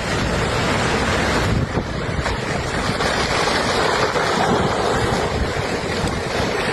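Loud, steady rush of wind and rough water, with wind buffeting the microphone.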